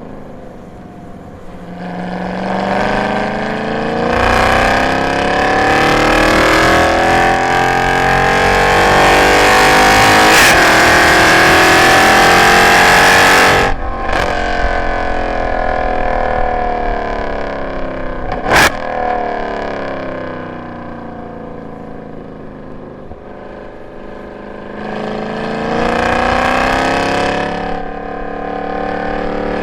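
A Mercedes-AMG M156 6.2-litre V8, fitted with long-tube headers, an X-pipe and no catalytic converters, pulls hard under full throttle with its pitch climbing for about ten seconds, then cuts off sharply as the driver lifts. The revs fall away for several seconds, with one sharp crack in the middle, and the engine winds up again under acceleration near the end.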